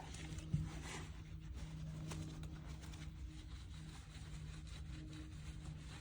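Faint rubbing of a cloth wiping buffing-compound residue off polished brass hardware, with a small click or two near the start, over a low steady hum.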